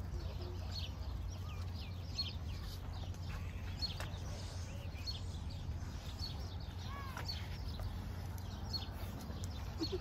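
Small birds chirping, many short high chirps repeating through the whole stretch, over a steady low rumble.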